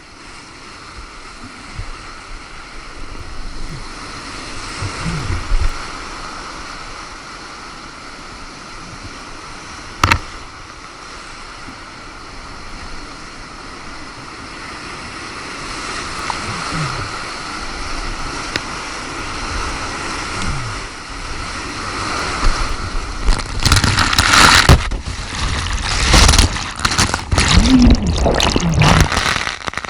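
Rushing floodwater of a whitewater creek and waterfall, heard from a kayak with wind and spray buffeting the microphone. A single sharp knock comes about ten seconds in, and over the last six seconds the splashing and buffeting turn louder and rougher.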